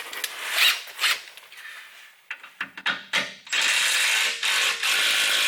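Handheld power drill working on a stripped skid-plate bolt to back it out. A few metal clicks and clinks come first, then, about three and a half seconds in, a steady motor whine that breaks off briefly twice.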